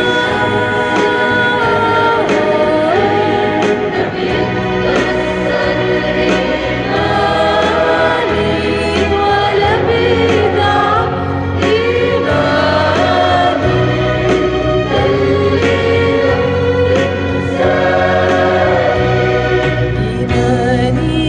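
Church choir singing an Arabic hymn in several voices, over sustained instrumental accompaniment.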